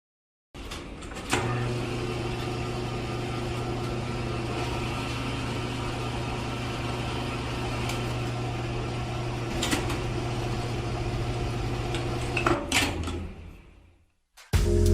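Small electric motor running with a steady hum, with a few light clicks; it starts about a second in and cuts off near the end.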